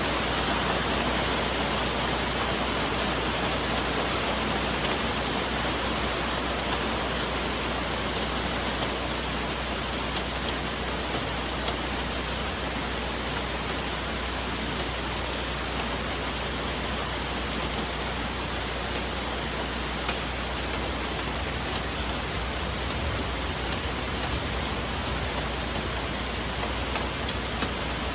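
Steady rain falling on forest foliage, a constant hiss with scattered drop patter and no loud thunderclap.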